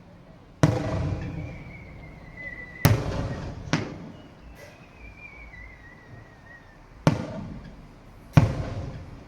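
Aerial fireworks bursting: five sharp booms, each dying away over a second or so. Between them come two long whistles that slowly fall in pitch.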